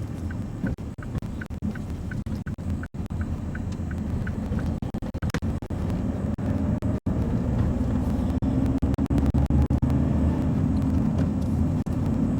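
Lorry engine and road rumble inside the cab, with a faint ticking about twice a second for the first five seconds or so, typical of the indicator relay.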